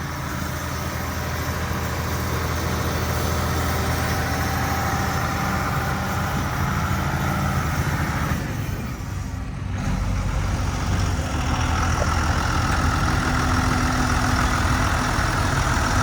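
Case 2290 tractor's six-cylinder diesel engine running steadily, with a brief drop in level about nine seconds in, after which the note carries on deeper.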